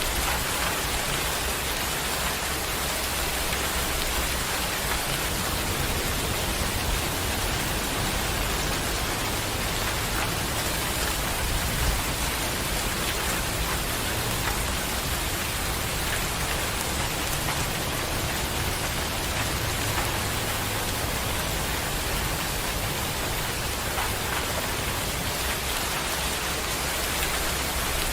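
Steady rain falling: an even hiss with scattered sharper drop ticks and a low rumble underneath.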